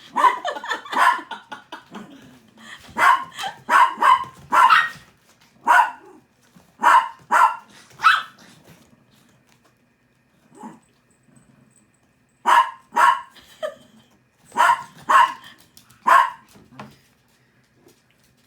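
Small dog barking in short, sharp barks, coming in bursts of several at a time with a pause of a few seconds near the middle.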